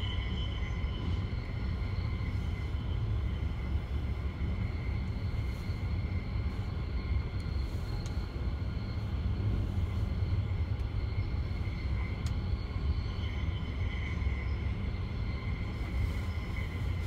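Passenger train running along the rails, a steady low rumble with a faint high whine over it.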